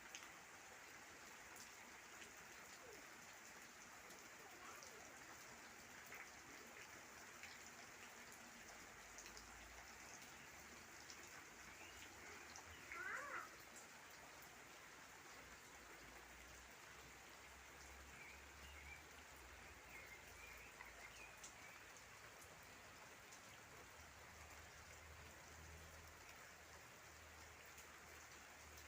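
Near silence: a faint steady hiss, with a short bird call about halfway through and a few faint chirps later.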